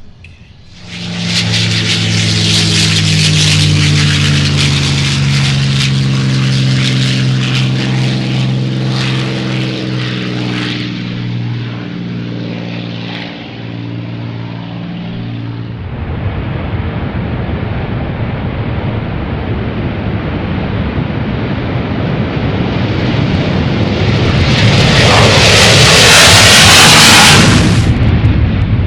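Aircraft engines running loud on an airfield: a steady, droning engine note for about fifteen seconds, then a broader, rushing rumble that swells to its loudest near the end.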